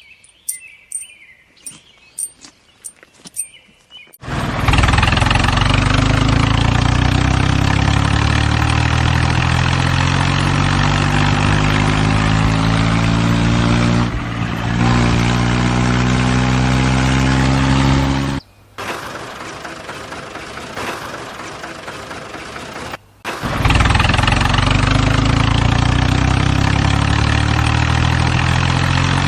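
Light clicks and taps, then about four seconds in a tractor engine starts up and runs steadily at a deep, slowly shifting pitch. Past the middle its low part drops away for about five seconds, leaving a thinner, quieter sound, before the full engine sound returns.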